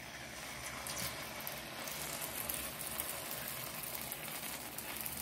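Cashew and onion paste sizzling and spattering in hot oil in a steel kadhai as it is tipped in: a steady crackling hiss that starts as the paste hits the oil.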